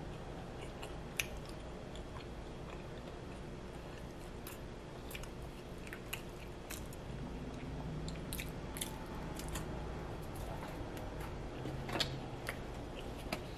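Close-miked chewing: soft wet mouth clicks and smacks at irregular intervals, the sharpest one about a second in and another near the end, with a faint low hum partway through.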